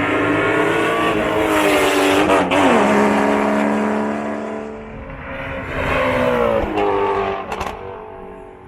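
Performance car engine accelerating hard: its pitch climbs, drops sharply at a gear change about two and a half seconds in, then holds and fades away. A second, shorter climb in pitch ends with another drop near the end.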